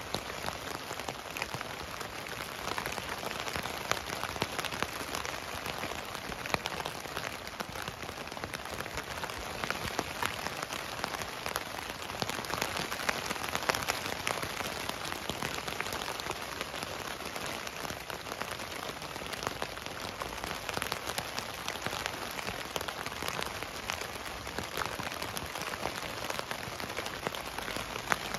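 Steady rain falling on a tent, heard from inside, with many separate drops tapping on the fabric.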